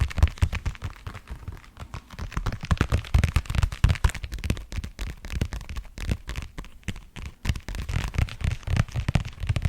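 Fingertips and nails tapping rapidly on an object close to the microphone: fast, irregular taps, each with a dull thud and a sharper click.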